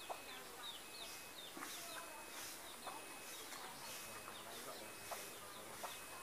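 Small birds chirping: a quick series of short, high chirps that thins out after the first second or so, with a few sharp clicks among them.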